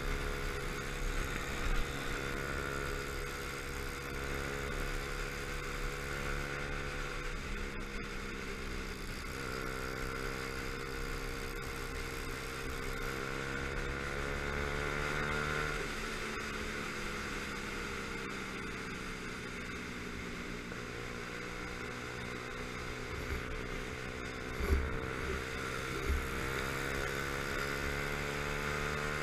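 Motorcycle engine running under way, its note climbing through the revs and dropping at gear changes a few times, with wind rumbling over the helmet-mounted microphone. A couple of brief thumps near the end.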